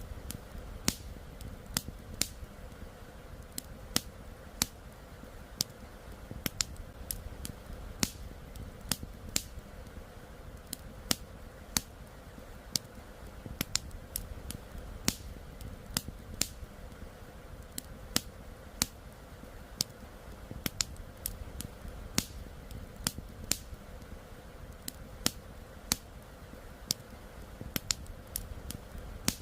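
Wood campfire crackling, with sharp irregular pops about one or two a second over a steady low rush of flowing river water.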